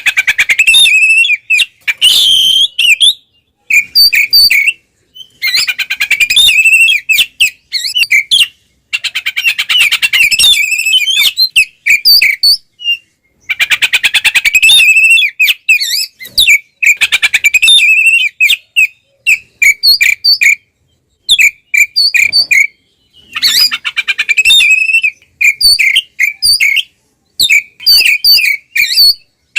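Oriental magpie-robin (kacer) singing loudly in its 'ngeplong' fighting song, the kind played to provoke other males. Clear whistled notes alternate with fast, harsh rattling trills, in repeated bursts broken by sudden short silences.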